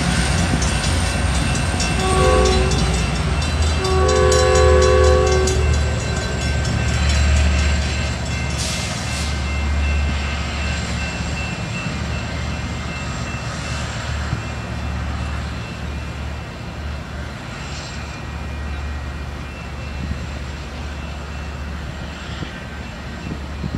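Amtrak Surfliner train's horn sounding twice, a short blast and then a longer one about two seconds later, over the low rumble of the train as it pulls away. The rumble slowly fades as the train recedes.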